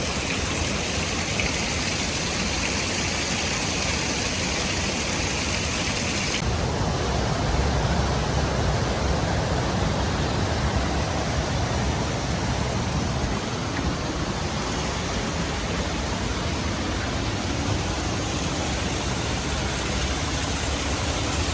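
Waterfall rushing, a loud, steady wash of falling water. About six seconds in the sound turns deeper, with less hiss and more low rumble.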